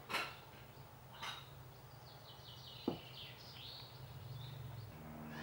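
Small birds chirping faintly over a low steady hum, with a brief rustle at the start and another about a second in, and a sharp click about three seconds in.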